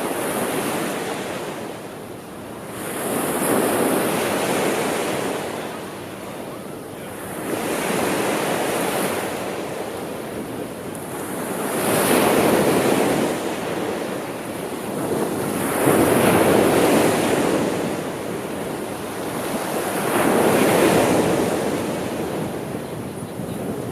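Sea waves breaking and washing up the shore, surging and falling back in slow, regular swells about every four seconds.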